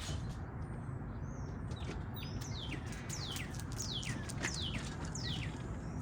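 A bird calling: a run of quick, high, down-slurred whistled notes, about half a second apart, over a steady low background rumble.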